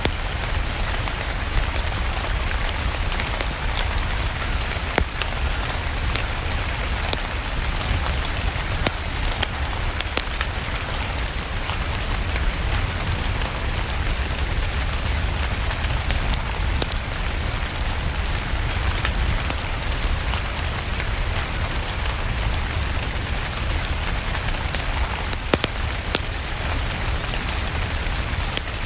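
Steady rain mixed with a crackling fire: an even hiss over a deep low rumble, with scattered sharp pops throughout.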